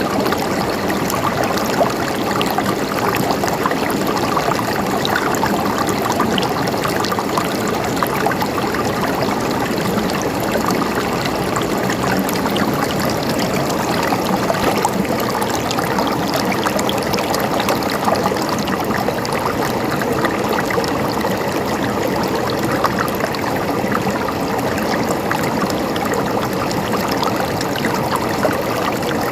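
River water flowing over rocks in a steady rush, with small splashes and trickles.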